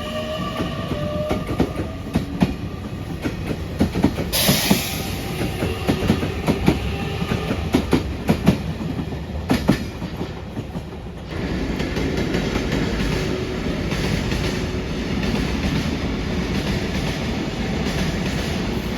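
Train running on rails, with repeated sharp clicks of wheels over rail joints. A short hiss comes about four seconds in, and from about eleven seconds the running noise grows louder and steadier.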